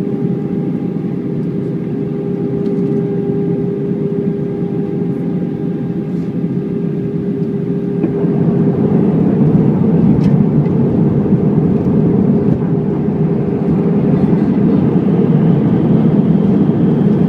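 Airbus A319 jet engines heard from inside the cabin: a steady hum with a held tone over a rushing noise, growing louder about eight seconds in.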